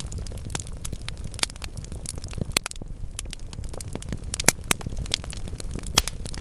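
Wood logs burning in a fireplace, crackling with irregular sharp pops over a low steady rumble of the flames. A few louder pops stand out, about two and a half, four and a half and six seconds in.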